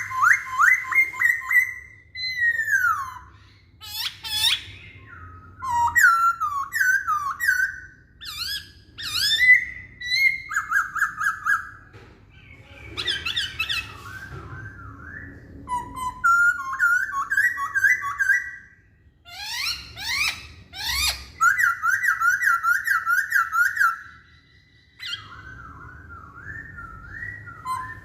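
Poksay Hongkong, a laughingthrush, singing a loud, varied whistled song: fast runs of repeated notes and slurred phrases, with short breaks between bursts.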